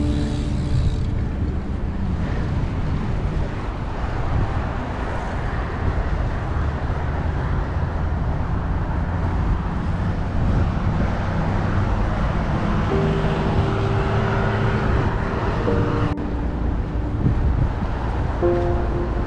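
Steady rush of wind and rolling noise on an action camera's microphone while riding a bicycle, heaviest in the low end.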